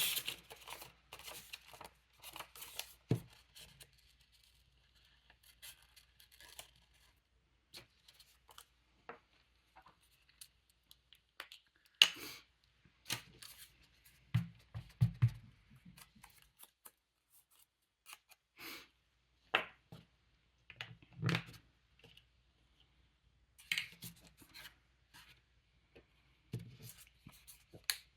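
Paper being worked by hand: scattered snips, rustles and light taps of cut paper pieces, with a few soft thuds as they are set down and pressed.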